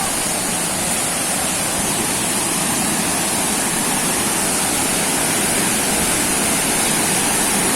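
Waterfall rushing steadily, a constant loud wash of falling water.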